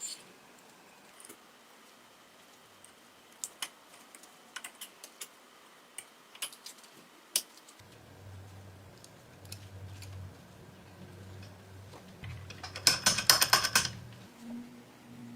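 Small metal parts clicking, with scattered single clicks. A low steady hum comes in about halfway, and near the end a quick rattling run of metallic clicks is the loudest part.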